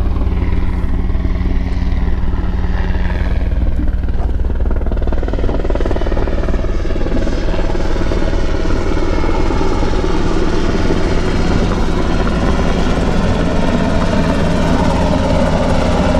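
U.S. Coast Guard helicopter flying back in close, its rotor and engine noise growing fuller and louder through the second half, over a steady low hum.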